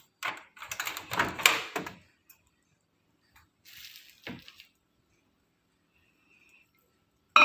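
A dish being handled at a microwave oven: about two seconds of clattering clicks and knocks, a short rustle, then a single knock.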